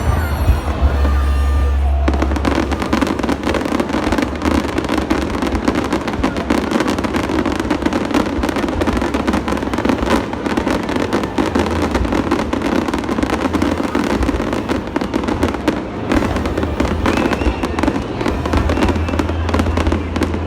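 A New Year fireworks display going off continuously: a dense, unbroken run of bangs and crackles, with music playing underneath.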